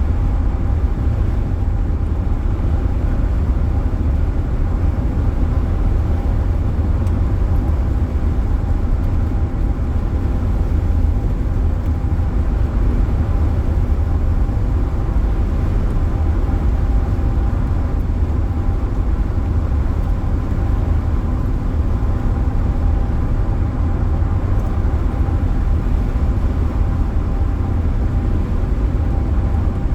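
Steady low road rumble inside a car driving at highway speed, with a faint steady whine.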